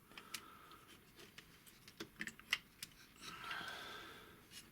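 Light clicks and taps of small plastic toy parts being handled and fitted together, a few separate clicks spread across the moment, with a softer drawn-out noise shortly before the end.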